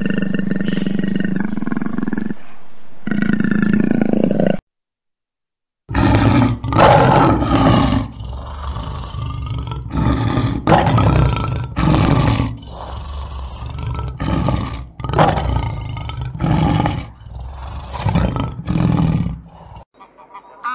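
A jaguar's low, steady growl that cuts off after a few seconds. After about a second of silence, a lion roars in a long bout: loud, deep roars that give way to a series of shorter, weaker grunts.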